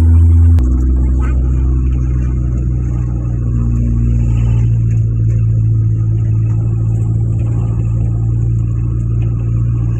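Vehicle engine running steadily with a low drone, its pitch pattern shifting abruptly about half a second in.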